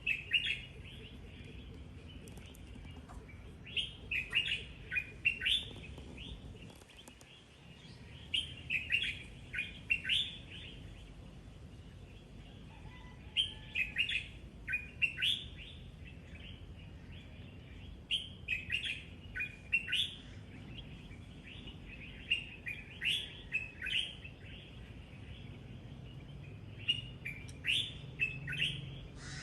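A songbird singing the same short phrase of quick chirps over and over, about once every four to five seconds, over a steady low background rumble.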